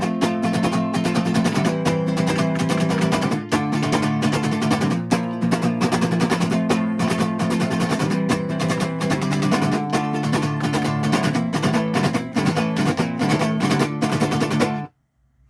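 Instrumental passage of a song, a guitar playing a steady rhythmic part. It cuts off abruptly about half a second before the end.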